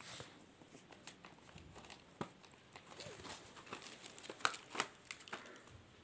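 Pitbull puppies scuffling about: a run of light clicks, scratches and rustles, with two sharper clicks about four and a half seconds in.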